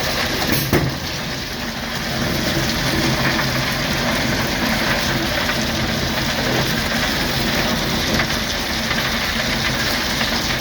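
Diesel locomotive engine running steadily, heard from inside the cab, with a single short knock under a second in.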